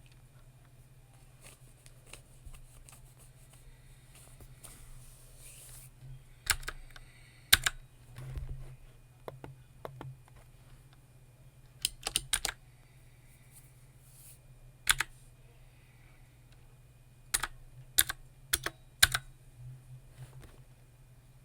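Computer keyboard keys being typed on in scattered, irregular clusters of sharp clicks with pauses between them, over a low steady hum. The first several seconds hold only faint soft sounds.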